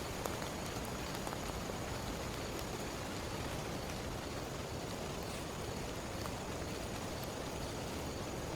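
Heavy rain falling steadily, a constant hiss with scattered individual drop ticks.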